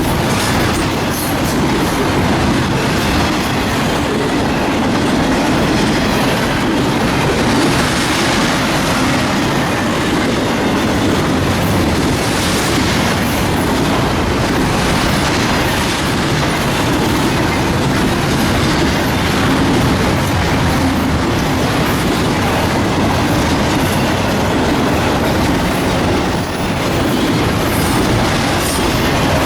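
Freight train cars rolling past at close range, a steady loud clatter of wheels over rail joints with occasional light wheel squeal.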